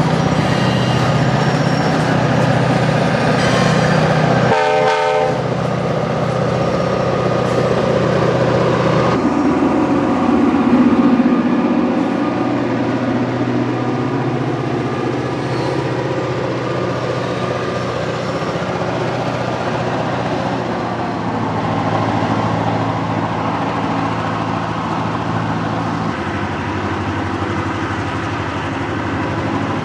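EMD GP38-2 locomotive's roots-blown 16-cylinder 645 diesel working hard and loud as it shoves a heavy cut of cars up a grade. A short blast of the locomotive horn sounds about five seconds in.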